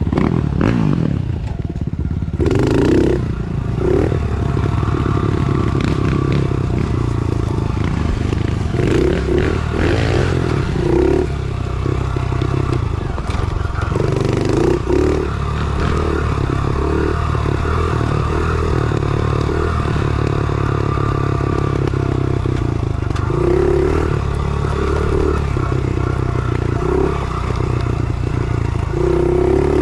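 A 110cc pit bike's single-cylinder four-stroke engine running under way, its pitch stepping up and down as the throttle changes. Intermittent clattering and scraping sounds come and go over the engine.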